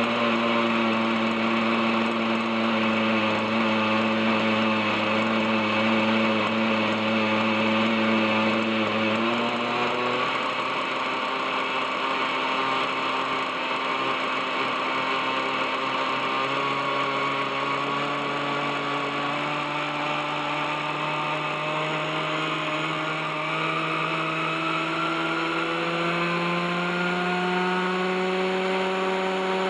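OS 61SF two-stroke glow engine of an RC helicopter running at hover, with a steady engine note whose pitch drops about nine seconds in and then climbs slowly through the rest. The engine was run after some thirty years without maintenance, and its rusty bearings drag.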